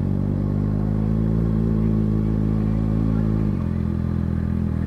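2019 Kawasaki ZX-6R's 636 cc inline-four engine running steadily at low revs as the bike rolls at walking pace. Its pitch drops slightly about three and a half seconds in.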